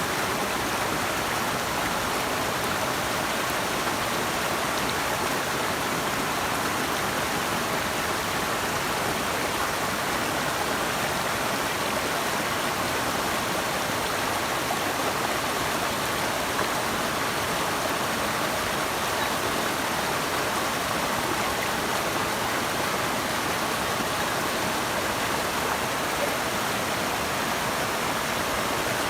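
Steady rush of flowing water from a river or waterfall, even and unbroken throughout.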